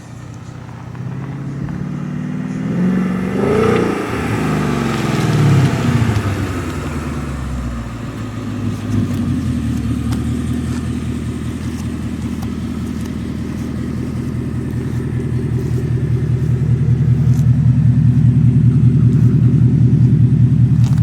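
2016 Ford Mustang GT's 5.0 V8 through a Magnaflow exhaust. The engine revs up and falls back a few seconds in, then runs steadily at low revs with a deep rumble that grows louder toward the end.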